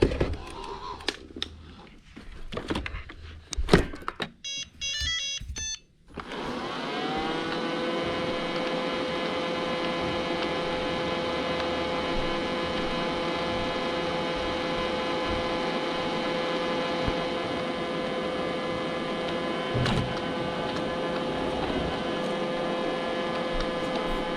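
Robot vacuum cleaner beeping a short run of tones after some knocks and clicks, then its motor spinning up about six seconds in and running with a steady hum.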